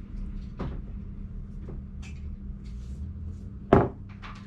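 A steady low hum with a light knock under a second in and a loud, sharp knock near the end.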